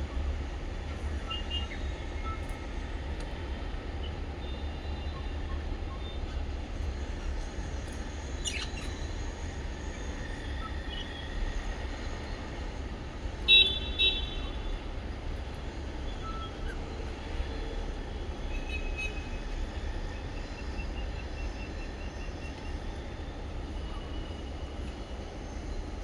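Small pet parrots chirping now and then, with one louder burst of calls about halfway through, over a steady low rumble.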